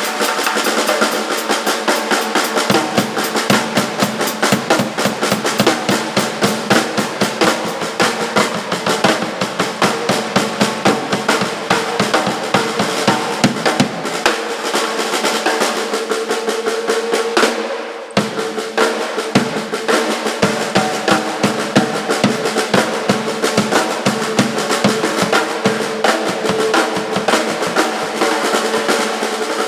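Rock band playing in rehearsal, with the drum kit to the fore: rapid snare and cymbal strokes with bass drum over a held note. The playing drops out for a moment about eighteen seconds in, then picks up again.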